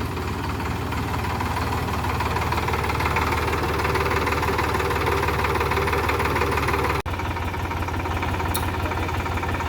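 Solis 5015 tractor's diesel engine running steadily, growing a little louder about two seconds in. There is a brief dropout about seven seconds in.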